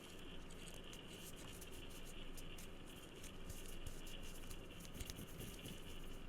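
Fingertips and nails tapping and scratching lightly on an object close to the microphone: a dense, uneven run of small crisp clicks.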